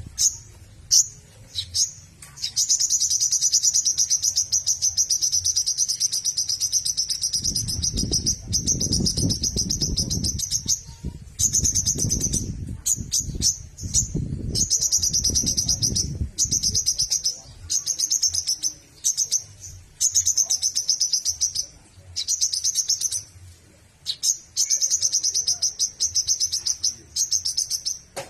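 Songbird singing a rapid, high-pitched chattering trill. The first phrase runs unbroken for about nine seconds, then the bird keeps going in bursts of one to three seconds with short breaks. A low rumbling noise sits under the song for several seconds in the middle.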